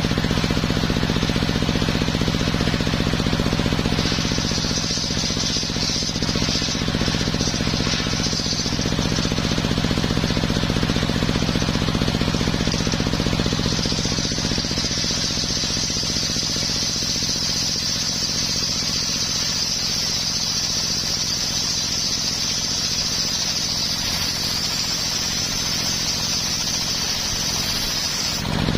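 Engine of a homemade circular sawmill running steadily with a rattling drone. A high, steady cutting noise rises over it as the circular blade saws through coconut-palm timber, from about 4 to 9 seconds in and again from about 14 seconds until just before the end.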